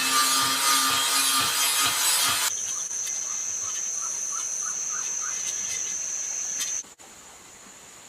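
Rasping, sawing-like tool noise with a low pulsing tone, which cuts off about two and a half seconds in to a quieter, steady high-pitched whine that stops suddenly near the end.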